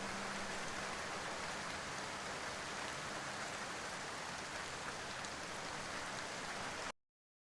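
Steady rain falling on a surface, an even hiss of drops, which cuts off abruptly to silence about seven seconds in.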